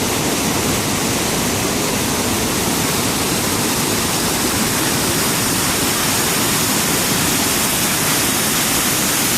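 Whitewater of a mountain creek rushing steadily through a rocky gorge: an unbroken, loud rush of water.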